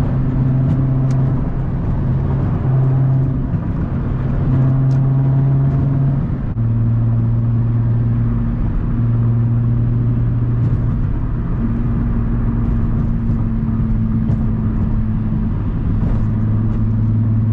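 Infiniti G35's 3.5-litre VQ35 V6 with the muffler and resonator deleted, giving a steady low exhaust drone at light, even revs in slow traffic. About six and a half seconds in the pitch drops slightly and holds steady.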